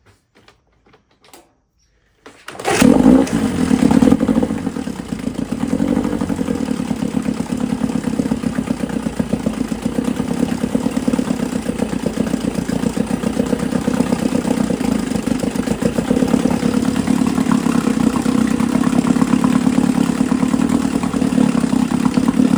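Old 9.5 hp two-stroke outboard motor catching about two and a half seconds in, rising briefly, then running steadily with a fast, even beat.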